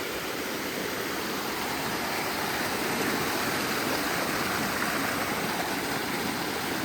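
Water of a waterfall rushing steadily, an even unbroken hiss.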